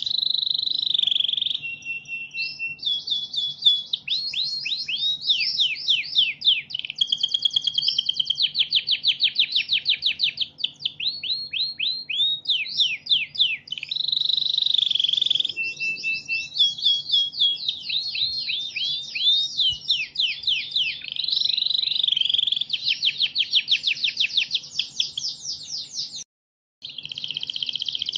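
Domestic canary singing a long, continuous song of fast trills and rolls, switching to a new phrase every second or two, with sweeping notes between them. The song breaks off for half a second of total silence near the end, then resumes.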